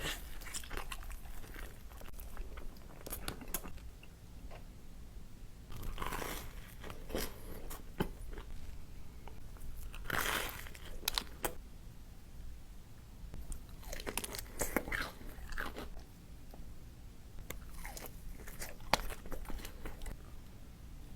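Close-miked eating: a person biting into crunchy food and chewing, with loud crackling crunches in bursts every few seconds between quieter chewing.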